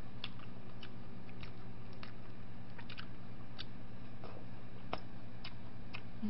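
Close-miked chewing: small, irregular mouth clicks and smacks, about one or two a second, over a steady low electrical hum.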